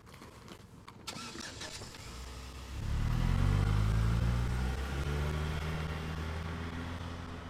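A short knock about a second in, then a silver Hyundai Elantra sedan's engine comes up loud about three seconds in and runs steadily as the car pulls away, fading toward the end.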